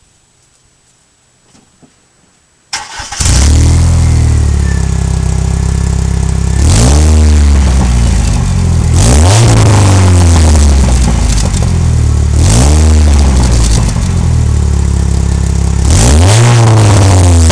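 A 1998 Dodge Neon's four-cylinder engine, breathing through a Cherry Bomb Turbo II muffler, starts suddenly about three seconds in after near silence, then idles with several quick revs a few seconds apart.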